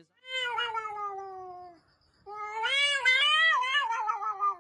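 Domestic cat giving two long, drawn-out meows: the first falls steadily in pitch, and after a short pause a second, longer one wavers up and down before sliding down.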